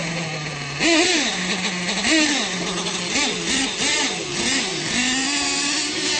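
Radio-controlled monster truck engines revving up and down in quick repeated bursts over a steady hum, settling to a steady drone near the end.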